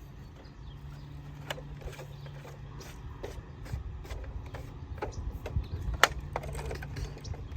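Scattered clicks and knocks of plastic toy truck parts being handled, more frequent in the second half, over a low steady hum.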